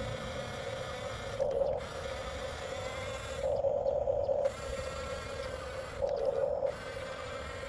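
Electric drive motors and plastic gearboxes of a 1/14 scale Huina RC bulldozer whirring steadily. The whine swells three times, briefly just over a second in, for about a second in the middle, and again near the end, as the machine works under load.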